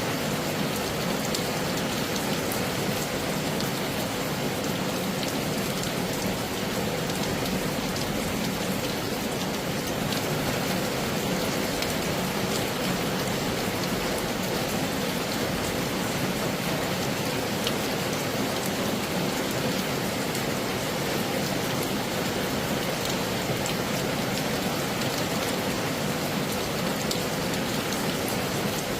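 Heavy rain falling steadily, with many individual drops ticking sharply through it.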